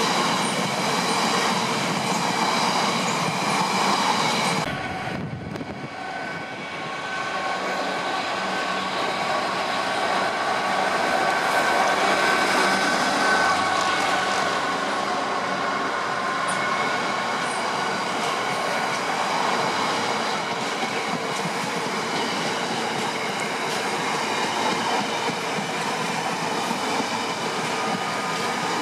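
Freight train of bogie coal hopper wagons rolling past at speed, its wheels running steadily over the rails. About five seconds in the sound dips briefly, then a second coal train hauled by a Class 66 diesel locomotive passes.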